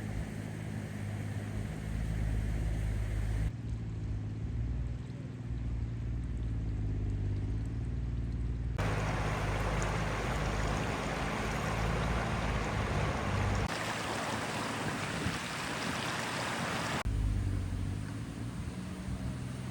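A machine engine running steadily, a low hum with a few steady pitch lines. The sound changes abruptly several times, and from about halfway through a loud even rushing noise covers it for several seconds.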